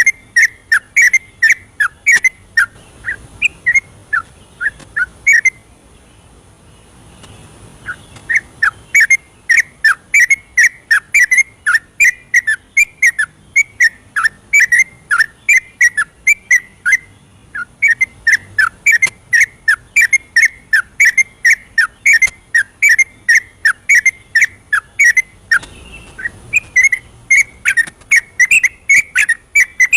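Yellow-vented bulbul singing a long, fast run of bubbling, whistled chirps, about three notes a second. It breaks off for about three seconds near the start, then carries on.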